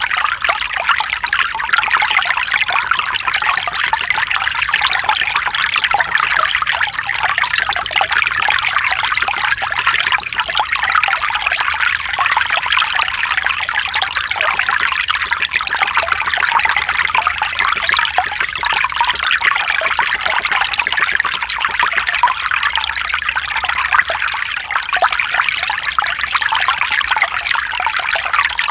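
Mountain stream, water trickling and splashing over rocks in a steady, even rush.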